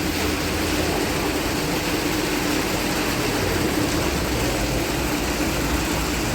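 Heavy truck engine running steadily, with an even drone and a constant hum.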